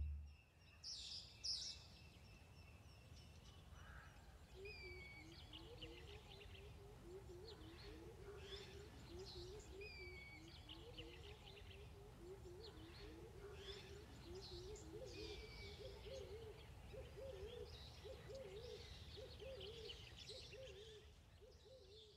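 Faint bird calls: a low wavering hooting call that goes on from about four seconds in, with high chirps and short downward-slurred whistles every few seconds.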